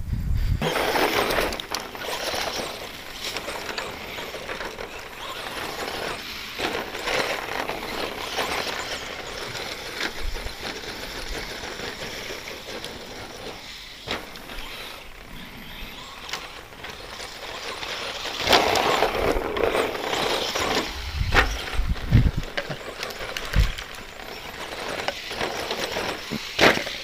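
ECX Circuit 2WD stadium truck running laps on a rough dirt track: its stock brushed electric motor and drivetrain rising and falling as it speeds up and lets off, tyres scrabbling over dirt, and a few sharp knocks from landings or bumps.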